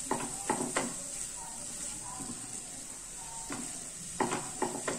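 Mushrooms and bell peppers sizzling steadily in butter in a frying pan as a spatula stirs them. The spatula scrapes and knocks against the pan in quick groups, three strokes near the start and four near the end.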